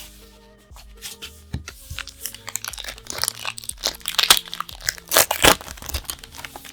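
Foil booster pack wrapper being crinkled and torn open by hand: a dense run of crackles that gets louder in the second half.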